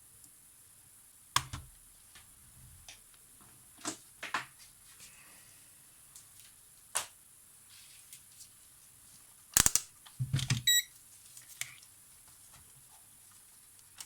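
Scattered small clicks and clacks from handling the opened mechanism of a Polaroid SLR 680 instant camera. The loudest is a cluster of sharp clicks about ten seconds in, with a very short high beep among them.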